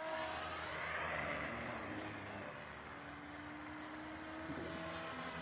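Align T-Rex 500X radio-controlled helicopter running, its electric motor whining steadily with the rotor blades swishing, flown to test a new pitch curve.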